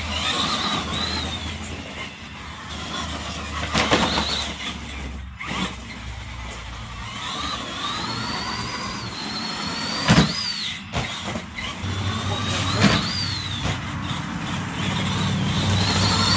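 Axial SMT10 RC monster truck's electric motor and drivetrain whining, the pitch rising and falling with the throttle, with sharp knocks from the truck hitting the ground about four, ten and thirteen seconds in.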